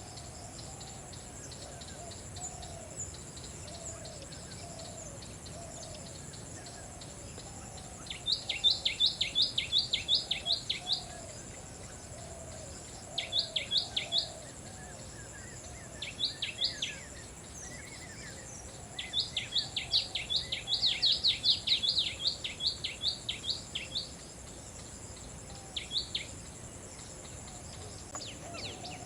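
A small bird giving runs of rapid, sharp down-slurred chirps, about eight notes a second, in several bouts, the longest lasting about five seconds past the middle. A steady high insect drone and a soft, low, repeated call run underneath throughout.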